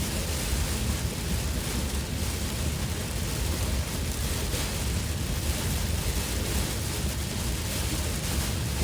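Heavy monsoon rain hitting a car's roof and windscreen, heard from inside the moving car as a steady hiss over a low road rumble.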